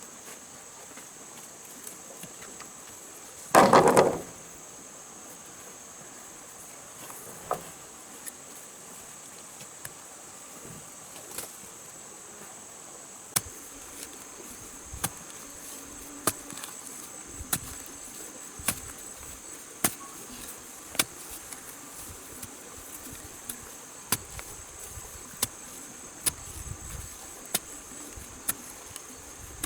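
Rainforest insects keep up a steady, high-pitched drone. About four seconds in there is one loud, brief noisy burst. From about halfway on, sharp knocks come roughly once a second, like strokes of hand work such as chopping or hammering.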